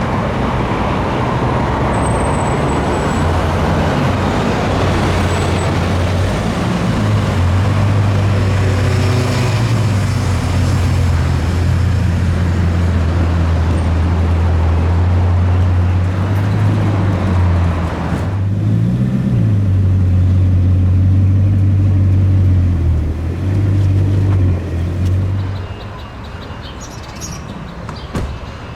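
A car engine running at low revs: a deep, steady drone with small shifts in pitch, over street traffic noise. It drops away about 26 seconds in.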